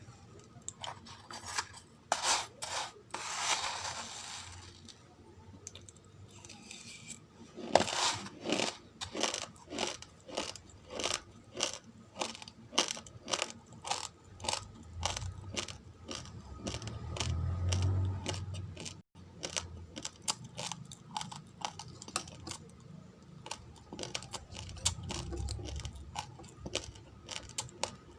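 Raw, uncooked rice grains crunched between the teeth: a steady run of short, sharp crunches, about two to three a second, with a short rustling hiss near the start.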